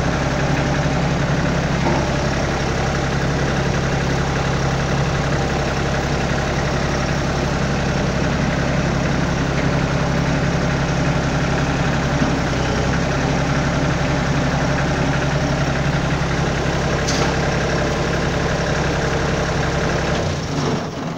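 Kioti tractor's diesel engine idling steadily, then shut off near the end, the sound dying away within about a second.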